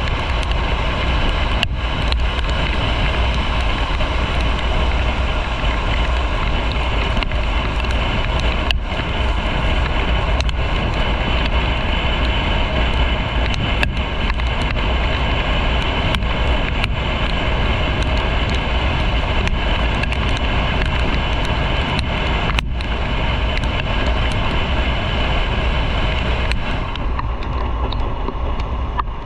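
Motorcycle riding at road speed: steady wind rush over the microphone with the bike's running noise underneath. The high hiss thins out a couple of seconds before the end.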